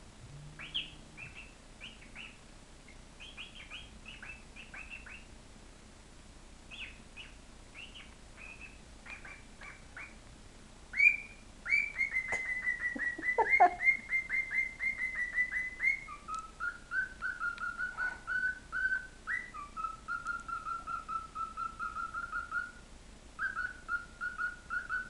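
Pet songbird singing: soft scattered chirps at first, then about eleven seconds in a loud, rapid trill of repeated notes on one pitch, which drops to a lower rapid trill that goes on with short breaks.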